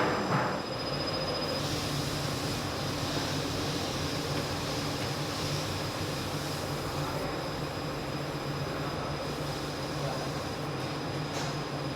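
Factory machinery running steadily, a continuous low hum and noise with a thin high whine over it.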